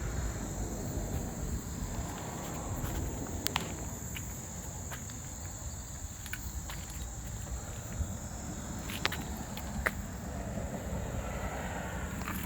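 A steady, high-pitched chorus of insects, with a low rumble and a few scattered light clicks underneath.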